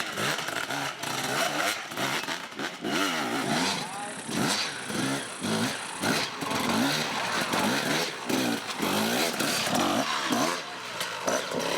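Off-road motorcycle engines revving up and down over and over, the pitch rising and falling about once a second.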